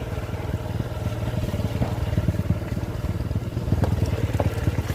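Motorcycle engine running slowly in low gear, its firing pulses steady, with a few sharp clicks and clatter from the bike on a rough dirt track.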